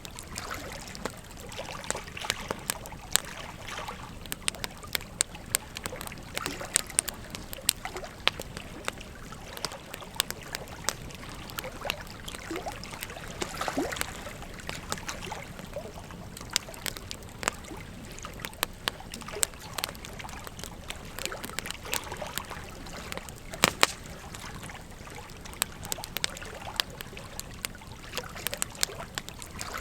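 Bonfire crackling with frequent sharp, irregular pops over the steady rush of flowing river water.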